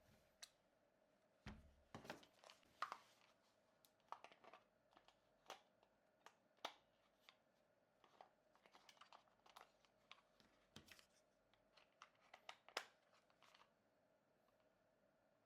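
Faint, irregular clicks, taps and crinkling as hands handle plastic packaging and parts while unboxing a toy RC stunt car, over a faint steady hum.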